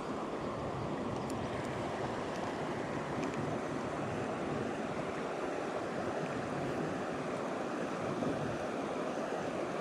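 Mountain stream running fast over rocks: a steady rush of water, with the stream running high.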